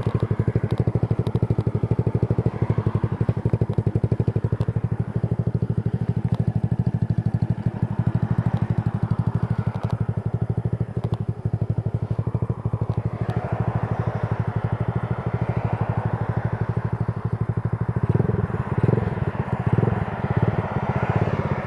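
Carbureted motorcycle engine idling with a steady, rapid exhaust beat. About 18 seconds in, the beat turns louder and uneven.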